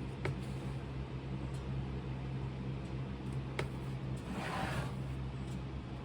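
A hand tool cutting vent lines into the packed sand of a casting mold: a couple of light clicks and one brief scrape a little past the middle. A steady low hum runs underneath.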